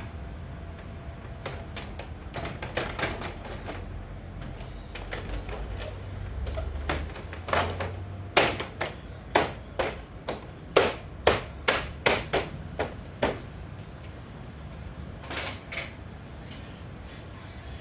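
A run of sharp clicks and knocks, about two a second and loudest in the middle, with a few scattered ones before and after, over a low hum at the start.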